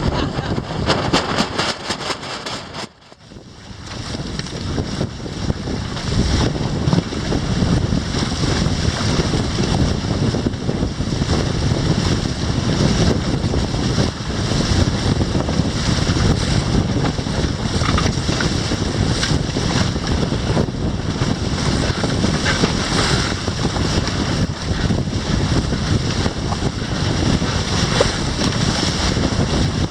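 Strong wind buffeting the microphone over water rushing along the hulls of a Grabner Hurricane inflatable catamaran sailing fast in a fresh breeze. The noise drops away sharply for about a second, about three seconds in, then builds back.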